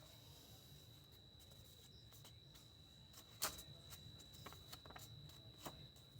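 Near silence: faint room tone with a steady high-pitched whine and a few soft clicks, the sharpest about three and a half seconds in.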